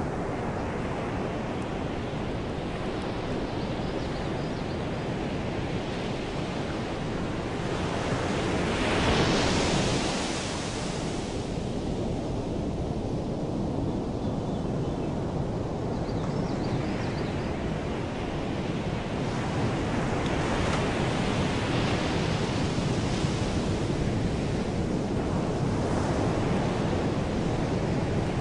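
Sea waves washing in steadily, with a bigger surge about nine seconds in and further swells around twenty seconds.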